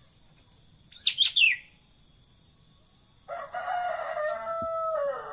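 Ekek keling bird calling: a brief burst of high, quickly sweeping notes about a second in, then a long, harsh, rasping call on one low pitch that dips slightly as it ends.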